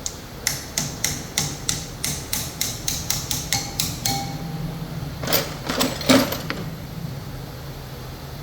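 Quick sharp taps at about four a second for some three and a half seconds, then a few louder knocks, from tool work on engine parts, over a steady low machine hum.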